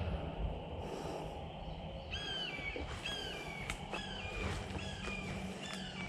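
A bird calling over and over from about two seconds in, a string of short calls that each drop in pitch, a little more than one a second, over the rustle of footsteps on leaf litter.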